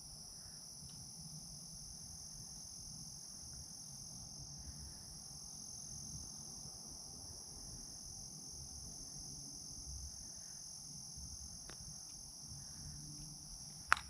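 Night-time insect chorus: a steady, unbroken high-pitched trilling, faint, with a couple of small clicks near the end.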